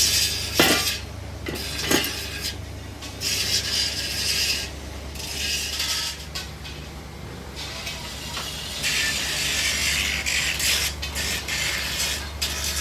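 Workshop machinery: a steady low hum with repeated loud bursts of hissing, rasping noise, the longest taking up the last few seconds.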